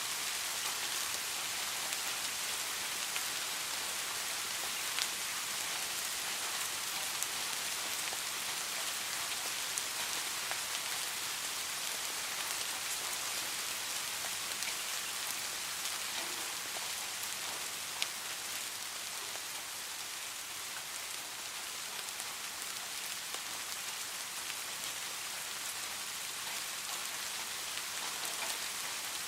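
Steady rain falling: a dense, even hiss with scattered single drops ticking sharply now and then.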